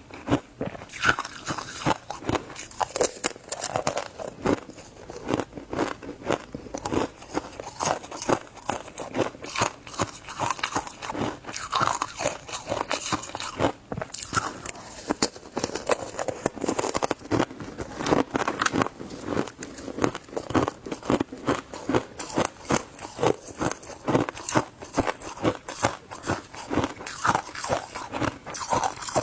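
Close-up crunching and chewing of shaved ice in the mouth: a dense run of sharp, irregular crunches.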